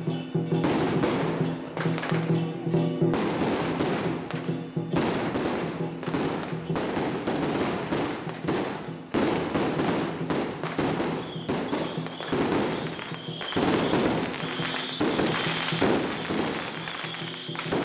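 Strings of firecrackers crackling rapidly and continuously over procession music with sustained notes. A high held tone joins about two-thirds of the way through.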